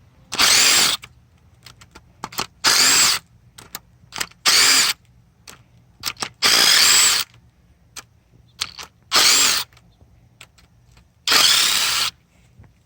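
Cordless power driver spinning out bolts in six short runs of under a second each, with small metal clicks of tools and parts between them, as the rocker arms come off a 6.7 Powerstroke diesel engine.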